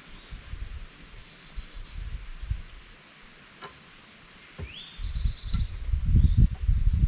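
Small birds chirping, several short calls, some sliding up in pitch, over a low rumbling that gets louder about five seconds in, with a couple of sharp clicks.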